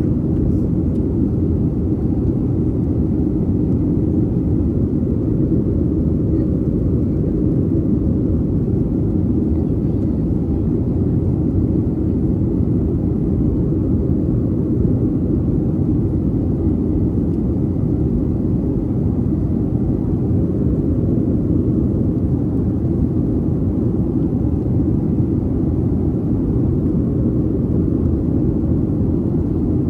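Steady low roar inside the cabin of a Boeing 737-800 in flight: its CFM56 jet engines and the airflow past the fuselage, heard from a window seat, even and unchanging.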